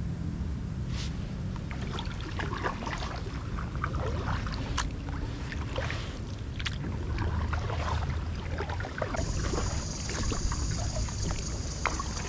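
Kayak paddle strokes: repeated short splashes and drips of the paddle blades in the water, over a steady low rumble. A steady high hiss comes in about nine seconds in.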